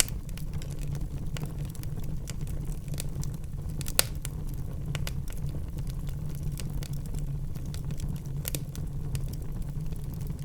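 Wood fire burning in a fireplace: a steady low rumble of the flames with irregular sharp crackles and pops, the loudest pop about four seconds in.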